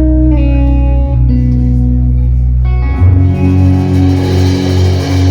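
Live rock band playing: electric guitar and bass hold sustained notes, then about three seconds in the full band comes in louder.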